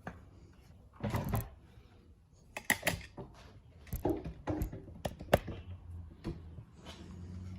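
Hand tools working the screws on an old outboard motor's exhaust cover: a scrape about a second in, then a series of sharp metallic clicks and knocks.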